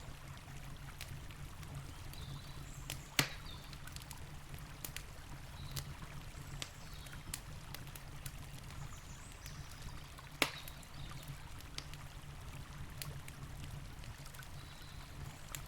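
Campfire crackling with scattered sharp pops, two of them much louder, about three seconds in and about two-thirds of the way through, over the steady rush of a river.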